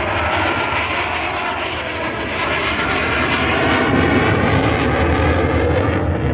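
Military jet aircraft flying past in an air show display, a loud steady engine roar that swells slightly after the middle.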